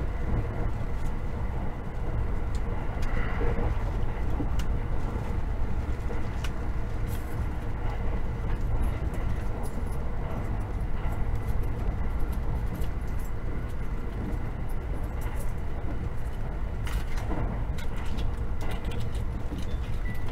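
Running noise inside a JR 683 series electric limited express at speed: a steady low rumble of wheels on rail, with faint steady tones above it and occasional light clicks.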